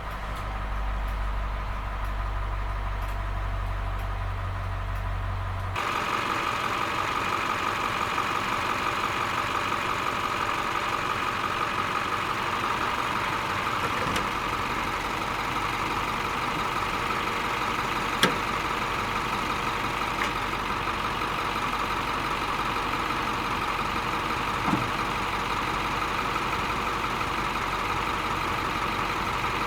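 International T444E turbo-diesel V8 of a 1995 Wayne school bus running steadily. About six seconds in, the sound changes abruptly from a low drone to a louder, brighter running sound with a steady whine. Two sharp clicks come later, the first the louder.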